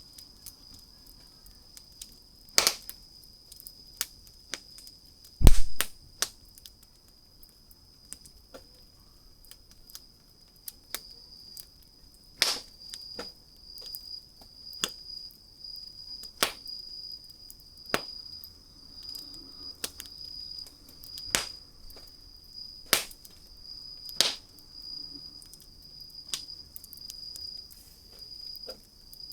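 Wood fire crackling, with irregular sharp pops and snaps and one louder, deeper thump about five seconds in. A steady high-pitched tone sounds throughout.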